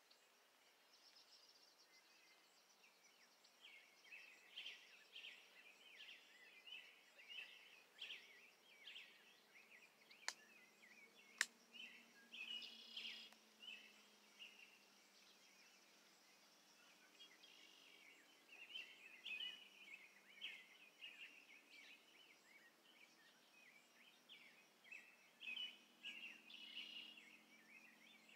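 Faint birdsong: many short, varied chirps and calls from several birds, with two sharp clicks about ten and eleven seconds in.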